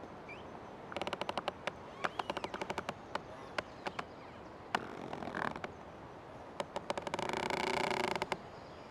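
Old tree creaking: runs of rapid ticking creaks in the first half, then one long drawn-out pitched creak near the end.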